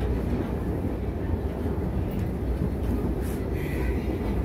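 SEPTA Regional Rail passenger car running along the track, heard from inside the car: a steady low rumble of wheels on rail.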